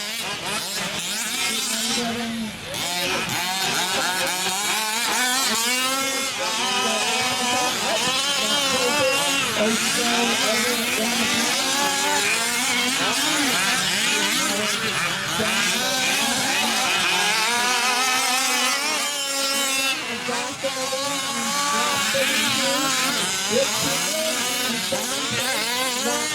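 Several 1/5-scale off-road RC trucks' small two-stroke petrol engines revving up and down together as they race, their overlapping whines rising and falling throughout.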